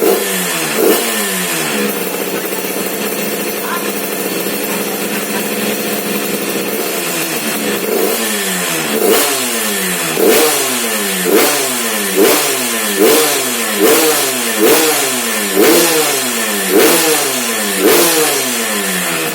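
Yamaha F1ZR single-cylinder two-stroke engine running through an aftermarket racing-standard exhaust. It gives a couple of throttle blips, idles for several seconds, then is revved in about ten quick blips, roughly one a second, each rising and falling back.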